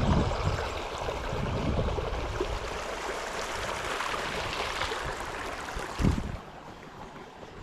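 Water rushing steadily over a small creek spillway, with a few low thumps. After a thump about six seconds in, the rush turns noticeably quieter.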